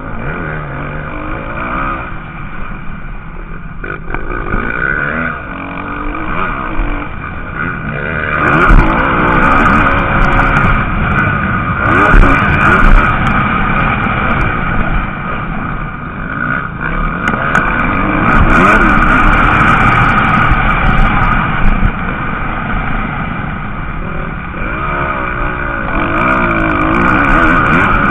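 Several motocross bikes racing on the track, their engines revving up and down as they accelerate and shift, growing louder about a third of the way in.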